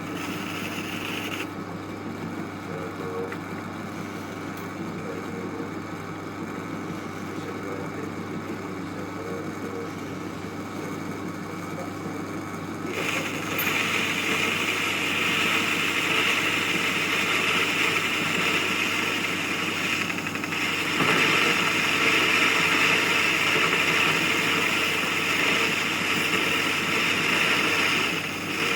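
Metal lathe running with a steady motor hum. About thirteen seconds in, a loud hissing cutting noise joins it as the tool bites into the metal, breaking off briefly around twenty seconds and carrying on until near the end.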